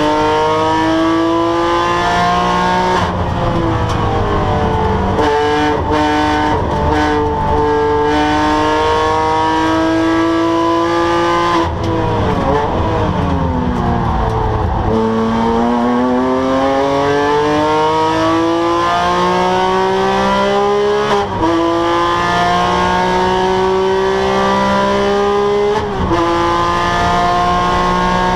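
Porsche 997 GT3's flat-six engine at full throttle, its pitch climbing through the gears with several quick upshifts. Midway the revs fall steeply as it brakes and downshifts, then climb again on the way out.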